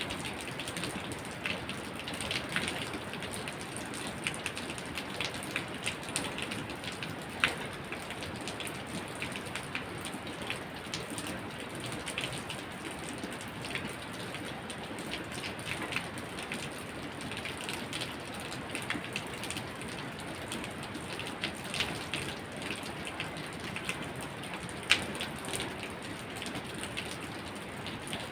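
Steady rain falling, with many sharp ticks of single drops striking close by; two louder drop hits stand out, about seven seconds in and near the end.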